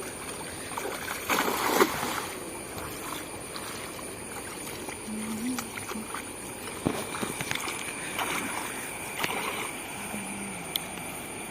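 Water splashing and sloshing in irregular bursts, loudest a little over a second in, from a cast net being worked in the water.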